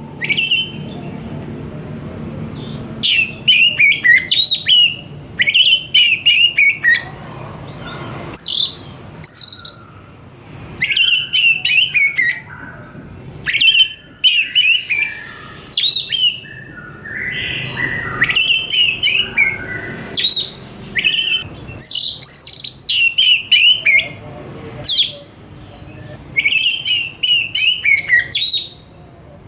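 Oriental magpie-robin singing in full voice: short bursts of varied whistled and chattering phrases, one after another every second or two with brief pauses between.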